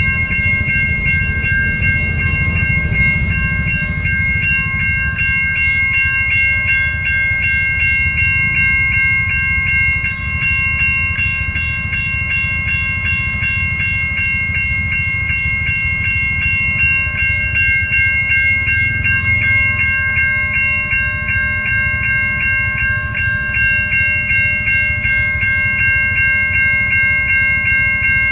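Railway level-crossing warning alarm sounding continuously as a fast, even pulse of several high tones, over the low rumble of a train passing through the crossing.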